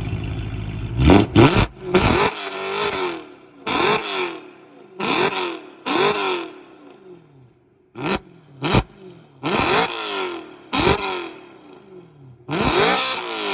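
Supercharged BMW E92 M3's 4.0-litre V8 (VF650 supercharger kit) through an IPE F1 exhaust, idling for a moment and then revved in about ten short, sharp blips. Each blip rises fast and drops quickly back toward idle, and the last one near the end is held a little longer.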